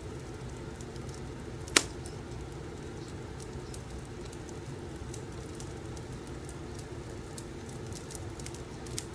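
Wood fire crackling, with many small crackles over a steady low rumble, a sharp loud pop about two seconds in and a smaller pop near the end.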